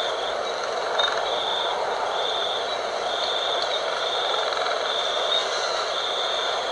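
Night wind blowing steadily, an even rushing noise, with a high thin tone above it that pulses on and off about once a second.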